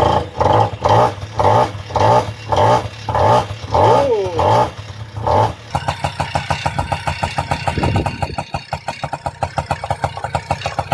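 Tomos moped's small two-stroke engine being turned over with loud pulses about two a second, then catching about six seconds in and running with a fast, even rattle. These are its first strokes on new piston rings after a cylinder head change, with no running-in.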